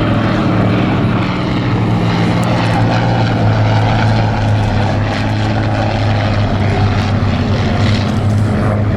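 Formation of Hawker biplanes (Nimrods, Demon and Hind) flying past, their Rolls-Royce Kestrel V12 piston engines and propellers making a steady drone.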